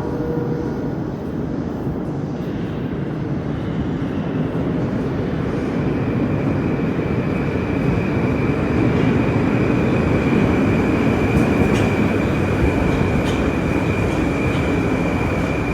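Moscow metro train running between stations, heard from inside the car: a steady rumble of wheels on rails. About six seconds in, a steady high whine from the train's traction drive joins it and holds.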